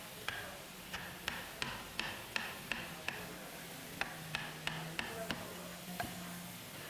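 Hammer or mallet blows on wood: a run of sharp knocks, about three a second, pausing briefly near the middle and then picking up again.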